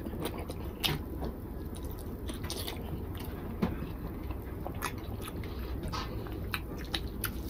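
A person chewing a mouthful of rice and curry, with scattered short wet mouth clicks and smacks over a low steady hum.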